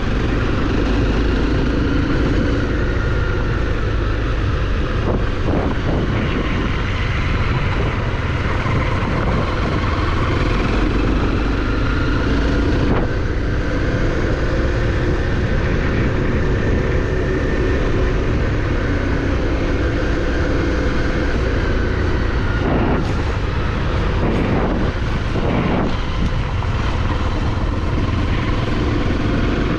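Off-road vehicle engine running steadily under load, with a few knocks about three-quarters of the way through.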